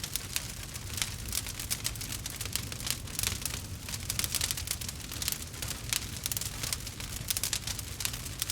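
Campfire crackling: a dense, irregular stream of small snaps and pops over a low steady rumble.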